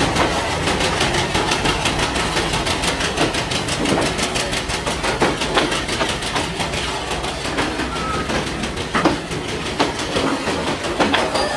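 Bogie covered goods wagons of a freight train rolling past, their wheels clicking rhythmically over the rail joints over a steady rumble.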